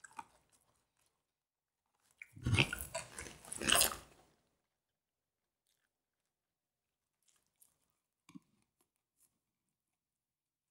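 Crunchy chewing of fried chicken close to the microphone, in two short spells about two to four seconds in, then near quiet with a faint click later on.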